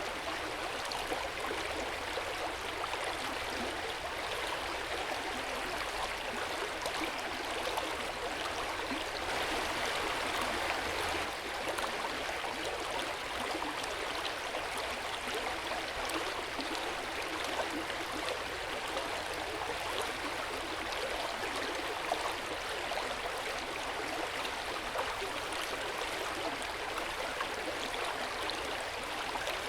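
Hot spring water flowing steadily in an open-air bath, an even rush of water that swells slightly about ten seconds in.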